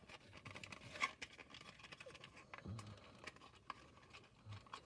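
Faint taps, scrapes and clicks of cardboard playset pieces being handled and slid together, with a sharper click about a second in and a few soft thumps.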